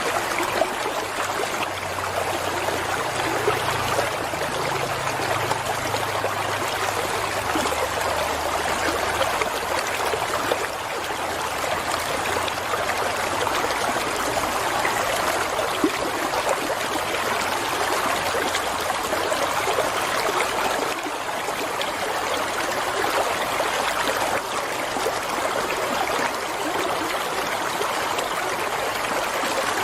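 Water flowing steadily in a stream, an even, continuous rush.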